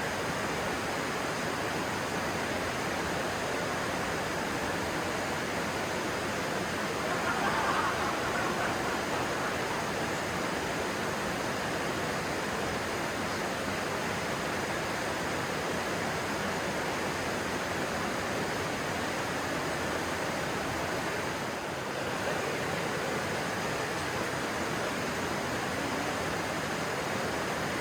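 Stream water rushing steadily, a dense even hiss of flowing water, swelling briefly about a quarter of the way in.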